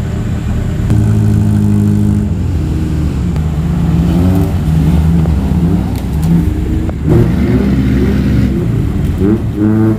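Off-road vehicle engine running and revving, its pitch rising and falling several times in short bursts from a few seconds in.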